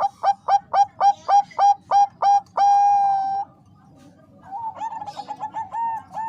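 Zebra dove (perkutut bangkok) cooing: a run of about ten quick upward-flicking coo notes, about four a second, ending in one long held note. After a short pause, a second, quieter run of quick notes begins.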